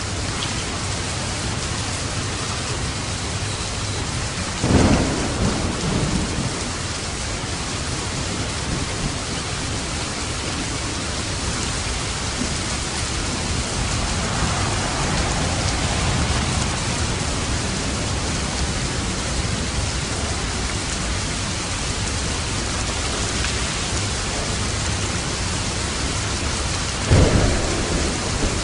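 Steady heavy rain with thunder: two sharp close claps, about five seconds in and again near the end, and a softer roll of thunder in between.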